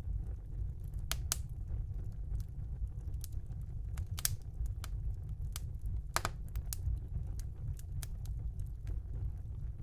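Wood fire burning in a fireplace: irregular sharp crackles and pops, with a louder pop about six seconds in, over a steady low rumble of flames.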